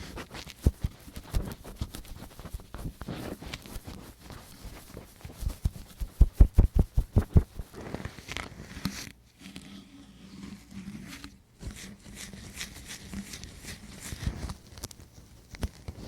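Close-up ASMR ear cleaning on the microphone: irregular scratching and clicking from ear-cleaning tools. About six seconds in comes a quick run of heavier thuds, about six a second, and later a short quieter stretch.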